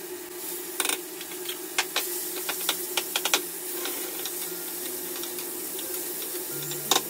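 Food frying in a hot pan: a steady sizzle broken by irregular crackles and pops, thickest about a second in and again around three seconds in.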